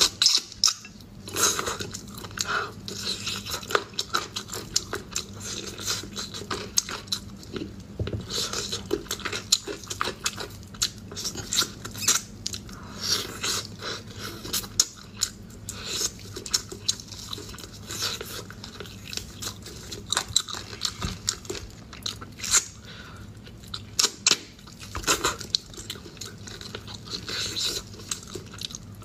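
Close-miked chewing and biting on braised pork rib pieces: irregular sharp clicks and wet mouth noises as meat is torn and chewed off the bone.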